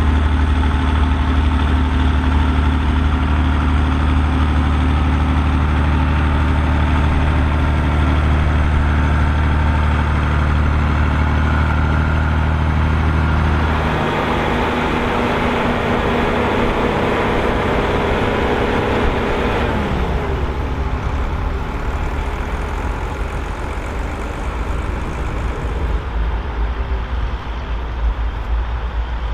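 Volvo BM 2654 tractor's diesel engine working steadily under load while pulling a plough. About halfway through the sound changes, and a little later the engine note slides down in pitch. Near the end a rougher, noisier rumble takes over.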